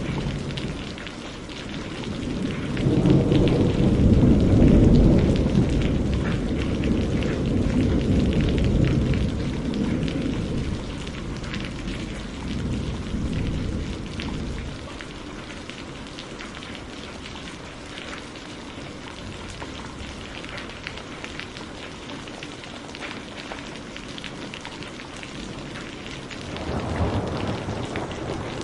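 Steady rain pattering, with a long roll of thunder that swells a couple of seconds in and fades over about ten seconds, then a second shorter rumble near the end.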